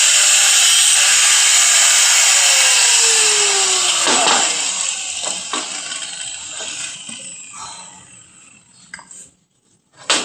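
Handheld power tool running at full speed, then switched off and winding down with a falling whine over several seconds, followed by a few small clicks and a sharp knock near the end.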